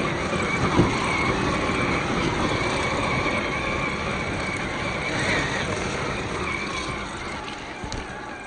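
Radio-controlled crawler truck driving, its electric motor and gears whining at a wavering pitch over a rough, noisy background. It fades near the end.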